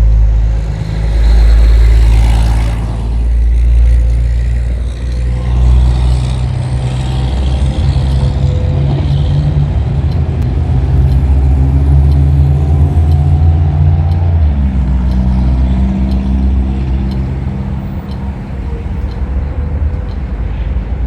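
A car engine running close by, a low steady drone that steps up in pitch about two-thirds of the way through, with a rush of passing traffic near the start.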